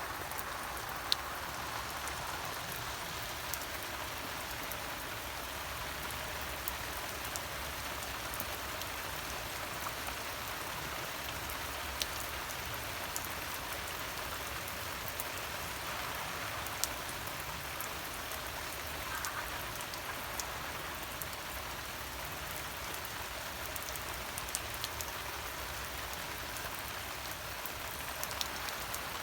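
Steady rain-like hiss with scattered sharp ticks, like drops striking a surface.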